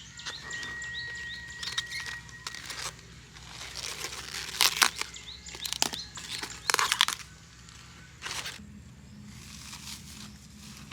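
Rustling and crinkling of something being handled, with several louder rustles around the middle. Birds chirp in the background early on.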